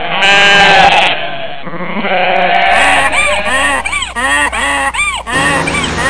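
Cartoon goat sound effect: a loud bleat, then a quick string of shorter calls that rise and fall in pitch, over street traffic noise.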